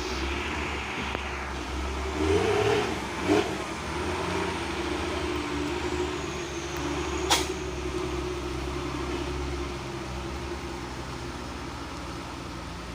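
Truck engine running steadily, swelling louder briefly about two to three seconds in. A single sharp click comes about seven seconds in.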